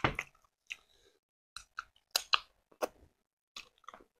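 Close-miked chewing of sweet potato and stewed cow leg: a string of short, irregular mouth clicks with near-silent gaps between them.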